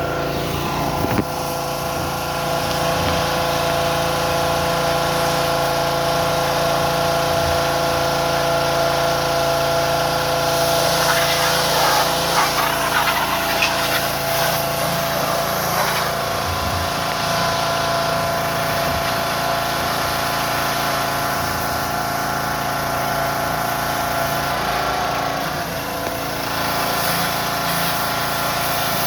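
Concrete mixer truck's diesel engine running steadily. A louder hissing rush joins it from about eleven to sixteen seconds in.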